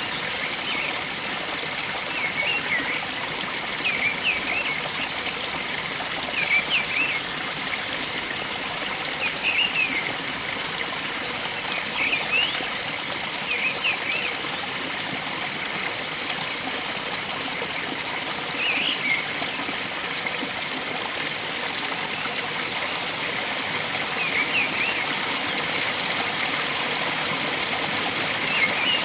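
Flowing water running steadily, like a stream, while a bird repeats a short call of a few quick chirps every few seconds.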